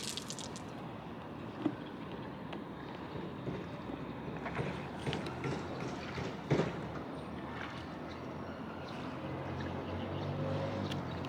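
A homemade wooden boat being paddled with a dustpan: water swishing and lapping against a steady outdoor hiss, with a few short sharp splashes or knocks from the strokes.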